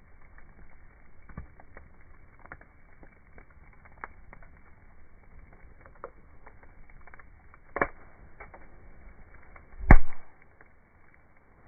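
Wood campfire crackling with irregular small pops and snaps, a louder crack about eight seconds in and a heavy knock near ten seconds.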